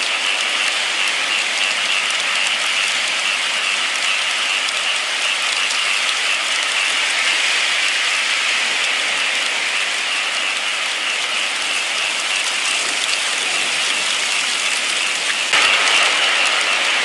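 Steady rainfall, an even hiss of falling rain. Near the end the sound steps up suddenly to a slightly louder level.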